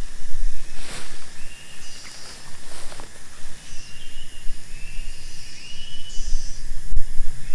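Rain falling in gusty wind, with a few sharp taps of drops. Several short, high chirping calls are heard, some ending in a rising glide.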